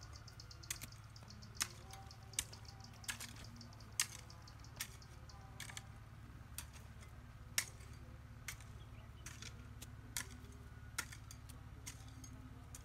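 Sharp, irregular knocks and cracks, roughly one every second, over a steady low hum. A fast, high, even ticking runs for the first two seconds or so.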